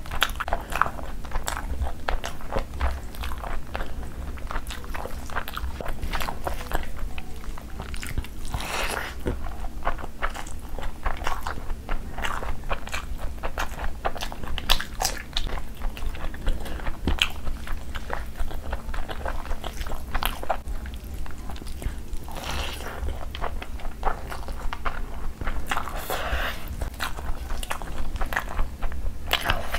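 Close-miked wet chewing and lip-smacking of rice and curry eaten by hand, with many small irregular mouth clicks throughout.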